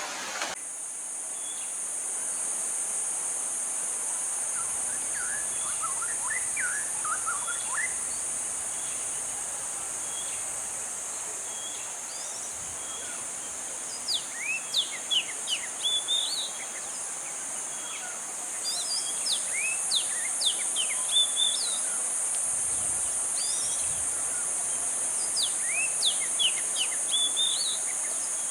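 A steady high-pitched drone of insects, with birds calling over it in quick runs of short, falling chirps. The runs come in bursts, the loudest near the middle and again near the end.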